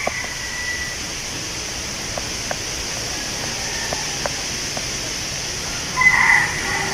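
Wind blowing through tree leaves, a steady rustling hiss, with a few light ticks scattered through it and a brief, louder high-pitched call about six seconds in.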